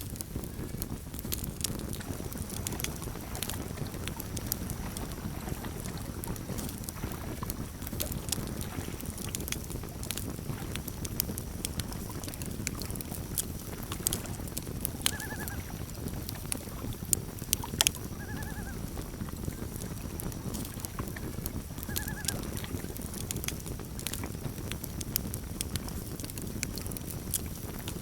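Campfire crackling, with frequent sharp pops over a steady low rumble. Three short high calls come in the second half, about three and a half seconds apart.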